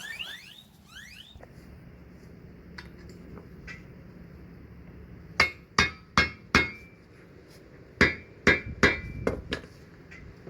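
Hammer blows on steel, ringing briefly: four quick strikes, a short pause, then five more. They are the blows that cut through and drive out an old leaf-spring eye bushing's metal sleeve.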